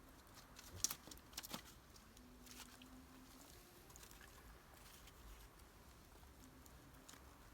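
Near silence, with a few short sharp clicks or pops about a second in.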